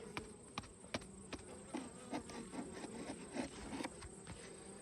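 Honeybees buzzing around an open hive, a faint wavering drone that swells as bees fly close past, with scattered light clicks.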